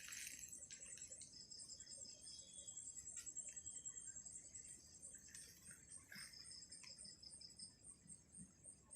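Crickets trilling faintly: one high, evenly pulsing trill throughout, joined twice by a second, lower trill for a second or two, with a few faint clicks.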